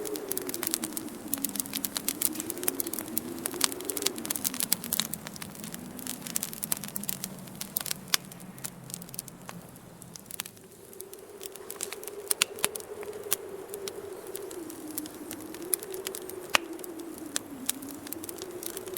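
Wood fire crackling with many sharp pops, over a low howling wind whose pitch slowly rises and falls. The wind fades away a little before halfway and comes back soon after.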